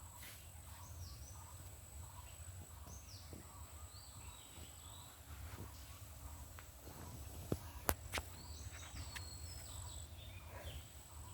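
Woodland ambience: scattered short, high, falling bird calls over a steady low rumble and a thin high steady whine, with three sharp clicks close together about eight seconds in.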